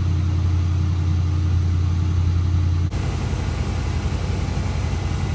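A 1987 Cadillac Brougham's V8 idling steadily with a low hum. About three seconds in, the sound changes abruptly to a rougher, less steady low rumble.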